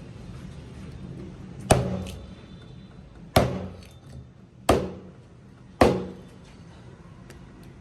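Four hard chopping strikes of a heavy kitchen knife onto a cutting board, each with a short ringing decay, spaced about one to one and a half seconds apart.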